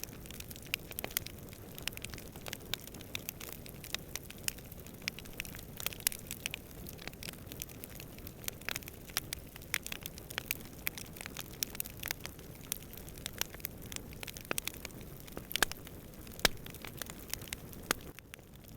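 Campfire burning with irregular crackles and sharp pops, several a second, over a steady low rush of wind; a few louder pops stand out near the end.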